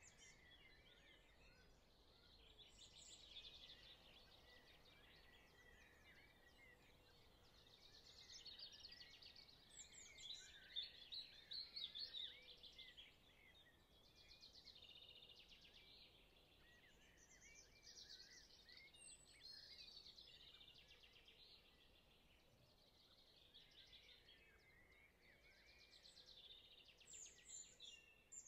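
Faint birdsong: several birds chirping and singing over one another in a continuous chorus.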